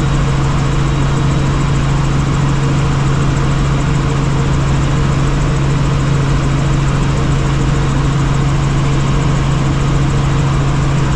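Helicopter cabin noise in flight: the engine and rotors make a loud, steady drone with a strong low hum and an even rushing noise over it.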